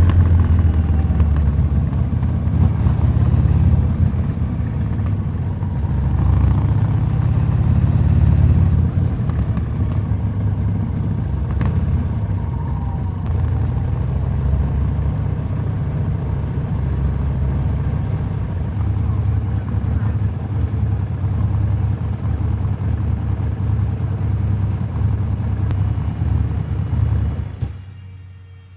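Harley-Davidson Street 750's V-twin engine running through a Vance & Hines slip-on exhaust, with a deep, low exhaust note that rises and falls with the throttle. It dies away sharply near the end.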